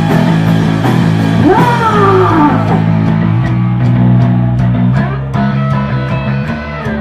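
Punk rock band playing live, in an instrumental stretch between vocal lines: electric guitar chords over bass and drums. A lead line slides down in pitch twice early on, then the drums settle into steady cymbal ticks.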